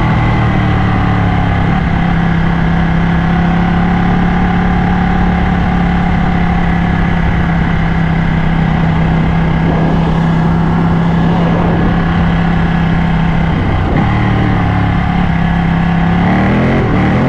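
Ducati motorcycle engine cruising at steady revs for most of the stretch, heard over a steady rush of wind noise. About fourteen seconds in the note breaks off briefly, then the revs climb and drop again near the end, like a gear change and acceleration.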